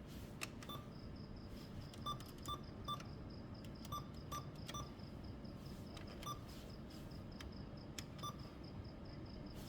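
Electronic keypad buttons pressed one at a time, about nine presses at uneven intervals, each giving a click and a short beep. A faint, rapidly pulsing high tone sits underneath.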